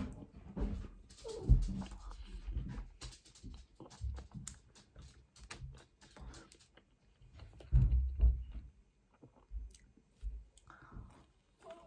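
Close-up chewing and biting of pizza crust, with many short wet mouth clicks and crunches. There are two louder low thumps, about a second and a half in and again about eight seconds in.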